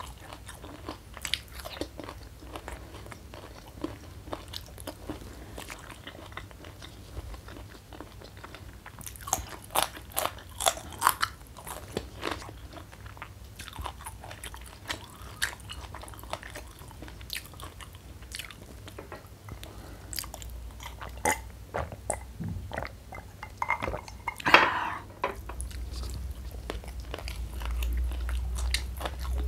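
Close-miked chewing and crunching of crispy fried mushroom and raw petai beans: clusters of sharp crunches, densest about ten seconds in, with one louder crunch near the end. A low rumble joins in the last few seconds.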